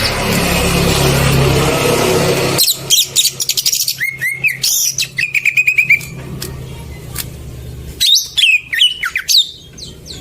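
Green leafbird (cucak ijo) song played as a lure: rapid clicks and varied whistles, a quick run of repeated notes, then after a short pause another burst of sweeping whistles. It opens with about two and a half seconds of loud rushing noise.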